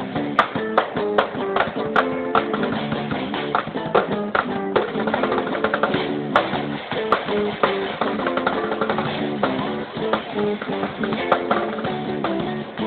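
Guitar and drums playing live music together: strummed and picked guitar over a steady drum beat.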